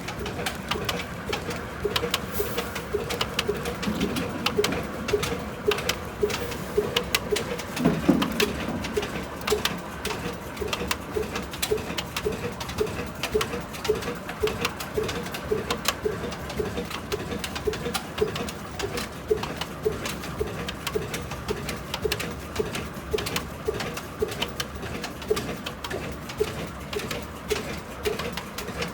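A 75-year-old stationary engine running slowly and steadily, its exhaust beating evenly at about one and a half to two beats a second, with light clicks over it.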